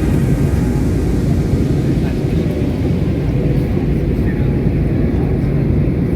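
Steady low rumble of an airplane's engines and airflow.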